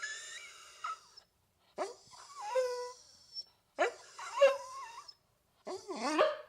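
Domestic dog whining, four separate drawn-out calls about a second apart, each wavering up and down in pitch.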